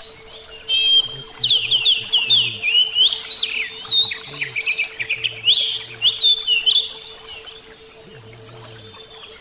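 Oriental magpie-robin (kacer) singing a rapid, varied run of whistles and chirps that lasts about six seconds, then trails off. A faint steady low hum sits underneath.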